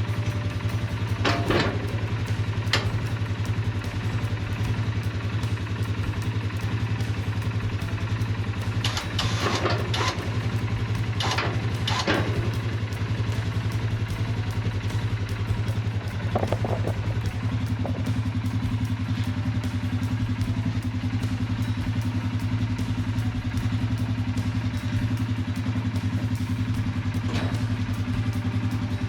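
Polaris Sportsman 570 ATV's single-cylinder engine running steadily, with a few sharp clicks and clanks over it, most of them bunched about nine to twelve seconds in.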